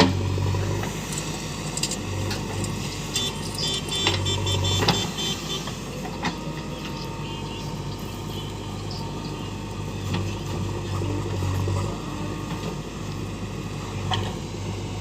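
Diesel engine of heavy road-work machinery running steadily, its low hum swelling and easing at times, with scattered clicks and knocks.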